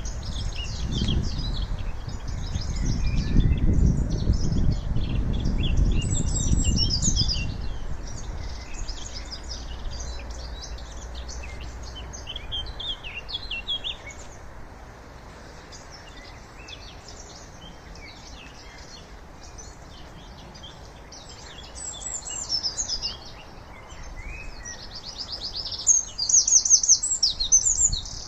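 Several songbirds singing and chirping, with a low rumble under them for the first seven seconds or so. Near the end one bird close by gives a loud, fast trill.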